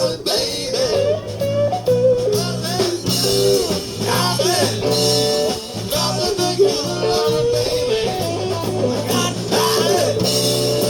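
Live blues-rock band playing, electric guitar lines bending over a steady bass.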